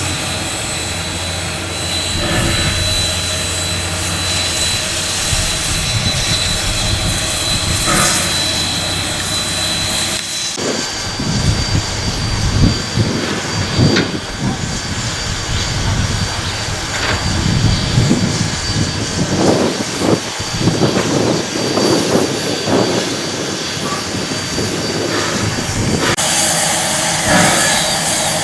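Steam locomotive noise: a loud, steady rushing hiss, with irregular knocks and puffs through the middle part.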